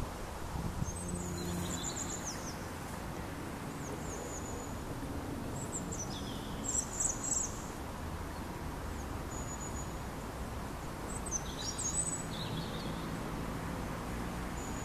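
Songbird singing in short phrases of high, thin twittering and whistled notes, three main phrases a few seconds apart with fainter notes between, over a steady low background rumble.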